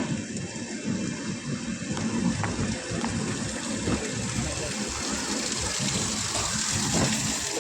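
Steady rushing noise inside a moving sleeper-class passenger coach, with a few faint knocks.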